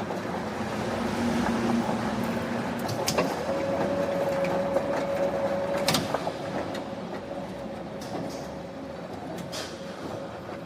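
Factory machinery running: a steady mechanical noise with a hum that steps up to a higher pitch about three seconds in, and a few sharp knocks, two of them louder.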